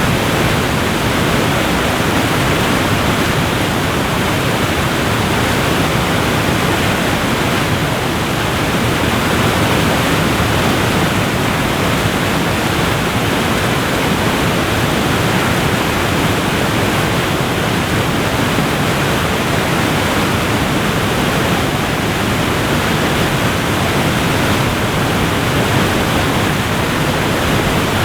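Waterfall rushing: a steady, loud, even roar of falling water, heaviest in the low and middle range.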